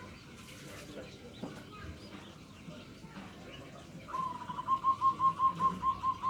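Zebra dove (perkutut) cooing, the local 'nutut' voice type: about four seconds in, a rapid rolling series of about ten short coos, all at nearly the same pitch, about five a second.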